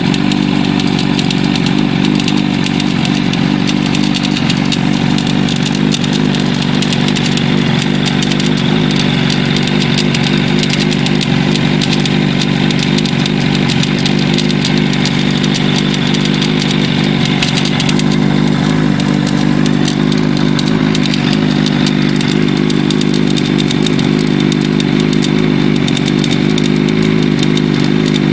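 Suzuki Katana motorcycle engine idling steadily with a rattle riding on its running note. The rattle is the fault being shown.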